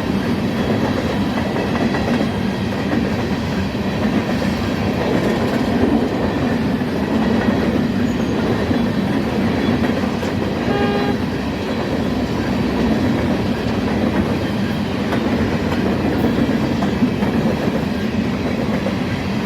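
Freight train passing at speed close by: a steady loud rumble of rolling cars with the clickety-clack of wheels over the rail joints. A short tone sounds once about halfway through.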